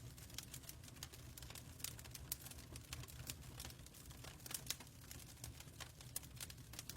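Wood fire crackling: irregular small snaps and a few sharper pops over a low steady rumble.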